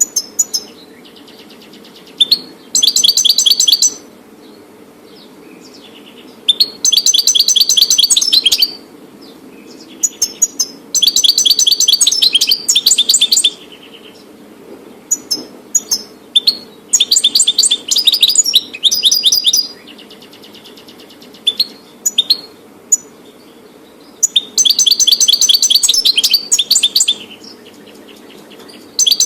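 European goldfinch singing: about six bursts of fast, high twittering song, each a second or two long, with single short call notes in the pauses between them.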